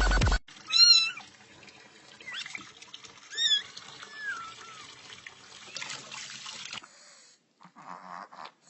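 A domestic cat meowing several times in short calls, the loudest about a second in and about three and a half seconds in.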